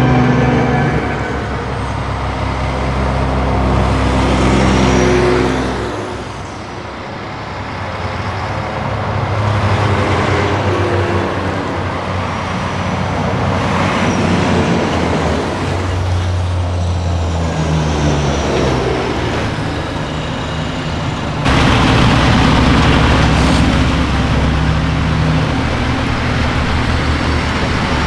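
Heavy military trucks' diesel engines running as they drive by, swelling and fading as one passes after another. The sound changes abruptly about 21 seconds in.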